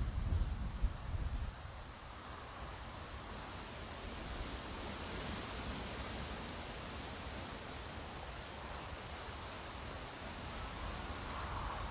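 Wind gusting on the microphone in low rumbles for the first second or so, then a steady breezy hiss with rustling leaves. A cricket chirps steadily throughout.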